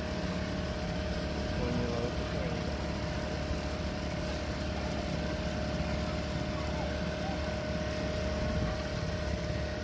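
An engine running steadily: a constant low rumble with a steady hum held at one pitch throughout.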